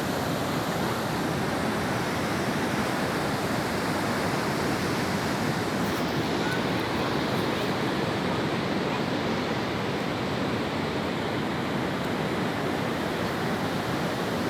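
Ocean surf washing steadily onto the beach, an even roar of breaking waves.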